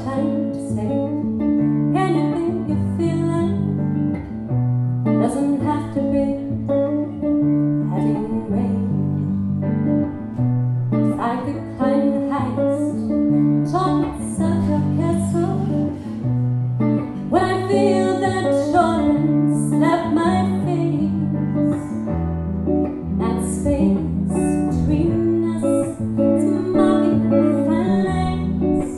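Live music: a strummed acoustic guitar plays the song, with low notes moving in steps beneath the chords.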